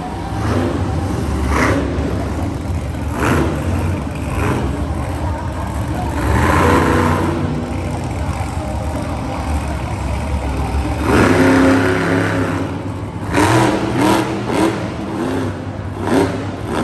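Monster truck engine running loud and revving hard in repeated surges, the revs climbing and dropping several times, with the biggest surge about eleven seconds in.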